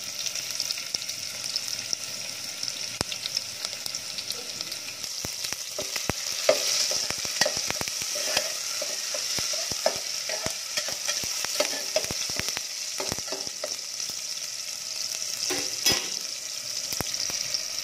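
Onion and tomato frying in hot oil in a pan, a steady sizzle, while a spatula stirs and scrapes, giving many short knocks against the pan. This is the masala base being roasted for a Kolhapuri chicken rassa.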